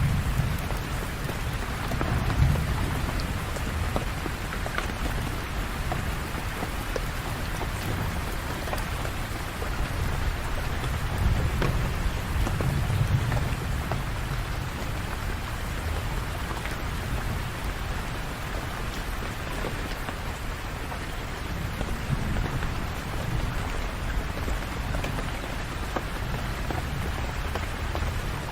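Steady rain falling, with low rumbles of thunder that swell and fade a few times, most strongly near the start and about twelve seconds in.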